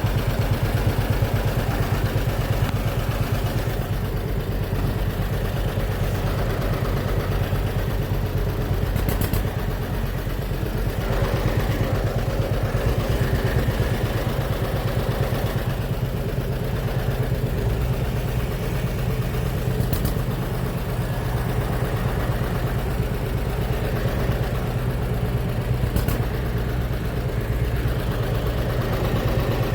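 Tractor engine running steadily at low revs, its firing pulses even throughout.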